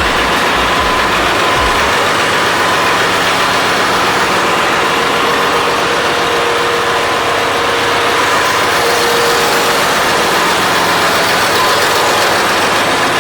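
Loud, steady running noise of a ship's engine-room machinery, a dense, even din with a faint steady tone running through it.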